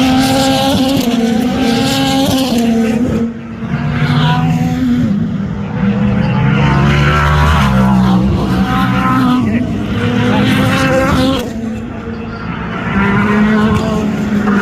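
Race car engines at high revs, their pitch repeatedly rising and falling, with the sound dropping away briefly about three seconds in and again near the end.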